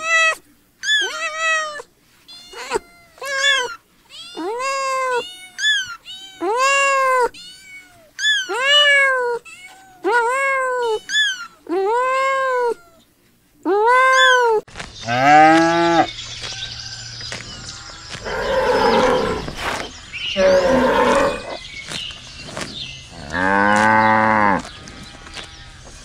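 Kittens meowing over and over in short, high calls about once a second. About halfway through, the sound changes to a cow mooing in several longer, much lower calls.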